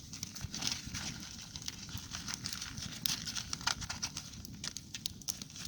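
Campfire crackling and ticking under a cooking pot, with crinkling and tapping as dehydrated spaghetti sauce is shaken and scraped out of its container into the pot.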